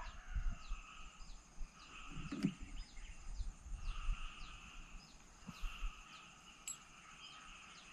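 Riverside ambience: a bird repeats short falling chirps about twice a second over a steady high insect drone. A soft knock comes about two and a half seconds in.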